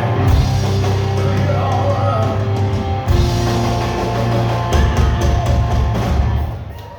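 Live rock band playing loudly, with electric guitar, bass and drums, the sound dipping briefly near the end.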